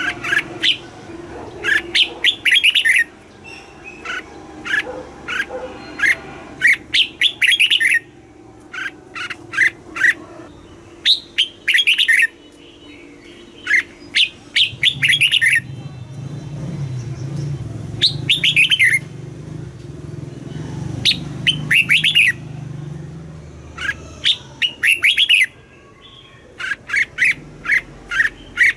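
Red-whiskered bulbul singing: short, quick, warbling phrases of sweeping notes repeated every second or two, with brief pauses between clusters. A low background rumble sits under the song for several seconds in the middle.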